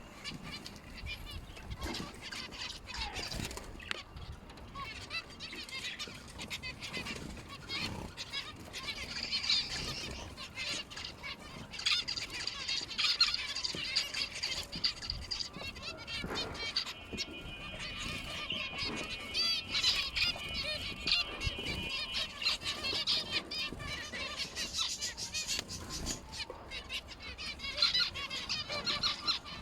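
A flock of caged lovebirds and finches chirping and chattering continuously, with many short, high calls overlapping.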